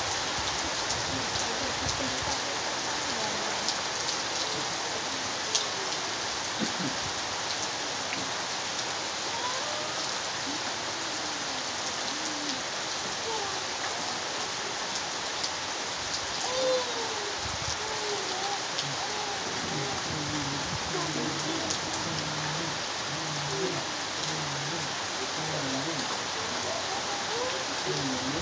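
Heavy rain falling steadily on foliage and wet ground, a dense even hiss.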